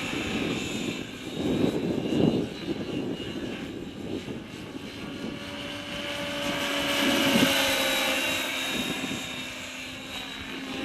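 Align T-Rex 550E electric RC helicopter in flight: the whine of its electric motor and helical main gear with the rotor running, pitch slowly rising and falling as it manoeuvres. Wind buffets the microphone in low rumbling gusts.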